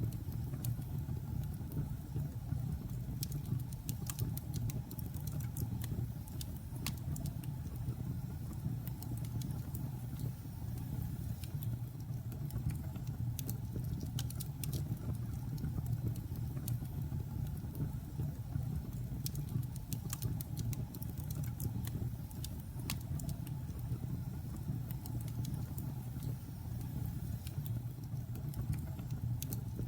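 Wood logs burning in a fireplace: a steady low rumble of the flames with frequent small, sharp crackles and pops at irregular intervals.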